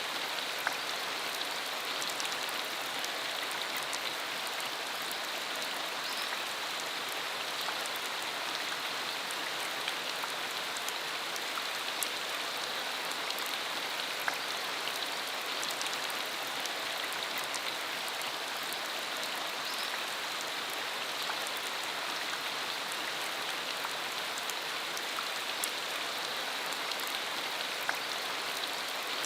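Steady rain falling, an even hiss with the faint sharp ticks of single drops hitting a surface.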